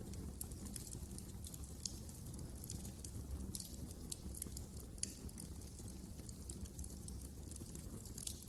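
Crackling wood fire in a fireplace: irregular sharp pops and snaps over a low, steady rumble of flames.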